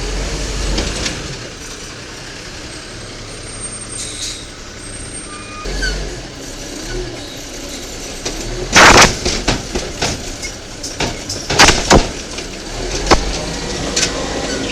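Diesel engine of a 1993 WhiteGMC garbage truck with an Amrep Octo automated side-loader arm running steadily. About nine seconds in comes a loud, short rushing burst, followed by several sharp bangs over the next few seconds.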